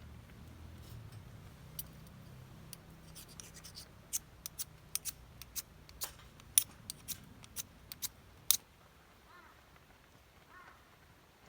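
A dozen or so sharp, irregular clicks and snaps over a few seconds, then a few faint, short chirps near the end.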